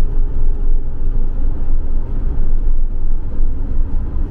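Camper van driving, heard from inside the cab: a steady low rumble of engine and road noise.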